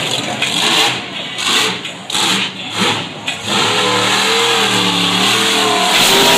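Monster truck engine revving over heavy roaring noise, surging several times and then holding with its pitch rising and falling.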